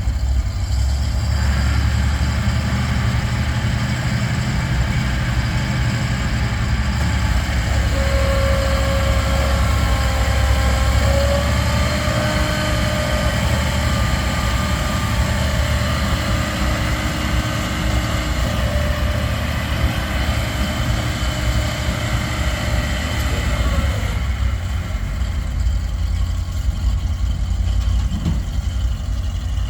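Ford F600 dump truck engine idling steadily. A fainter whining tone rides over it from about eight seconds in until about twenty-four seconds.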